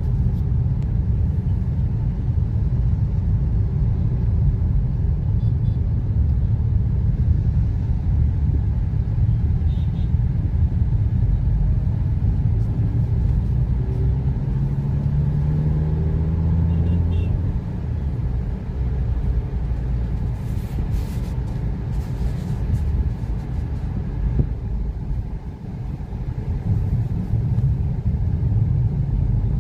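Steady low rumble of road and engine noise inside the cabin of a moving Maruti Ignis, from its 1.2-litre four-cylinder petrol engine and tyres. About halfway through, the engine note rises as the car accelerates for a few seconds, then drops back.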